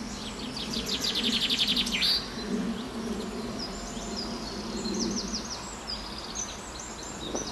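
Songbirds singing. A loud, rapid high trill starts about half a second in and lasts about a second and a half, followed by several shorter high trills, over a low steady background rush.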